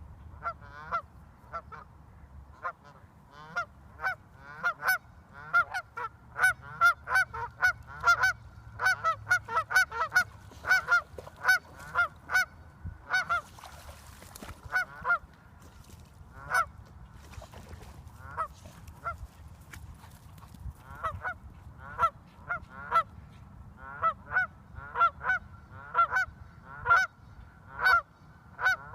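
A flock of geese honking: short, repeated calls that overlap, one to three a second. A brief hiss is heard about halfway through.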